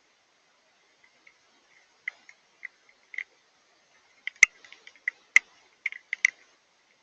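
Rain mixed with wet snow falling as irregular ticks and taps on a hard surface near the microphone, sparse at first and then quicker, with two sharper, louder clicks about halfway through.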